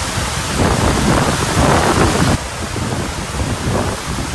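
Strong wind buffeting the microphone in gusts, with a sudden drop in level a little past halfway.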